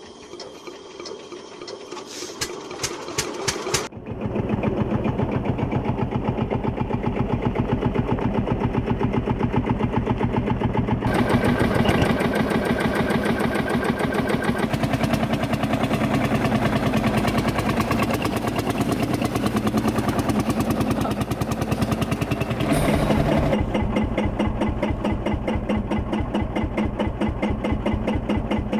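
Small motor of a homemade mini tractor model starting about four seconds in after a few clicks, then running steadily with a fast, even rattling buzz. Its sound shifts around eleven seconds and again near twenty-three seconds.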